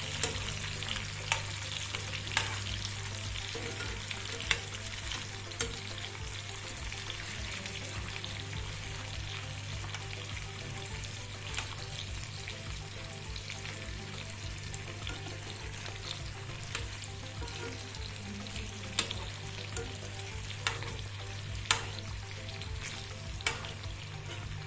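Bone-in chicken pieces sizzling in oil in a pan on low heat while being stirred, with a utensil knocking sharply against the pan every second or few.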